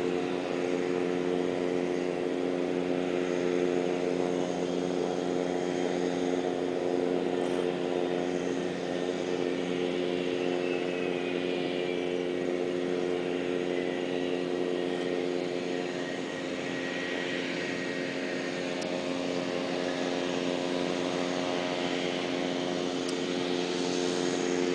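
Twin turbofan engines of a Cessna Citation Mustang 510 running steadily on the ground after landing: a constant hum with a faint high whine that slowly falls in pitch through the middle.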